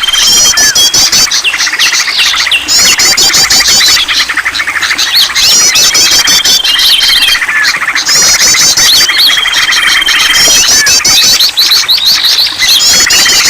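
A dense chorus of songbirds chirping and calling, played as a bird-lure recording to set caged birds singing. Rapid high chirp phrases repeat every couple of seconds, with a high steady whistle now and then.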